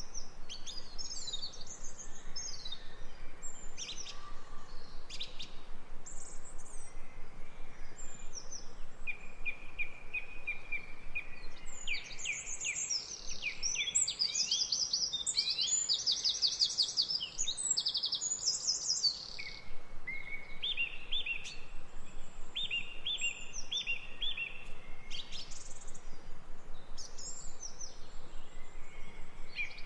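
Several songbirds singing and chirping over each other, with quick trills and runs of rapidly repeated notes, over a faint steady background hiss.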